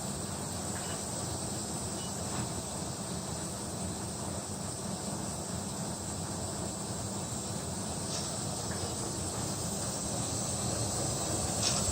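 Office air conditioner running, a steady even rushing noise with a faint high hiss and a couple of light ticks.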